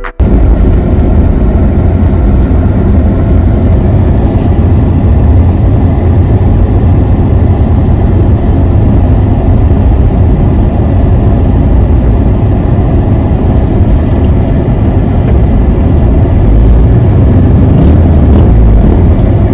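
Loud, steady rumble of a car on the move, with heavy low wind and road noise on the microphone. It cuts in abruptly.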